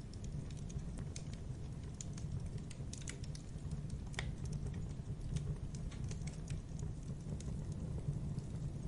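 Wood campfire crackling: irregular small snaps and pops over a steady low rumble of burning, with one sharper pop about four seconds in.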